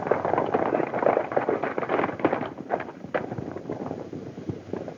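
Hoofbeats of several horses galloping off together, a dense irregular clatter that fades as they ride away.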